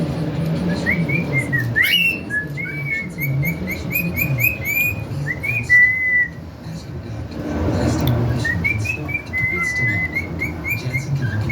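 A pet bird and a person whistling together: runs of short, sliding, chirpy whistled notes at much the same pitch, with a longer held note about six seconds in and a brief pause before the notes resume. A low murmur sits underneath.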